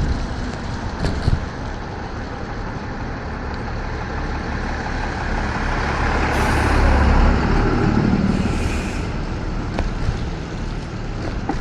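Steady wind and wet-road rush while riding an electric scooter through rain and snow, with a low rumble beneath. A louder hissing rush comes twice, about six and eight seconds in.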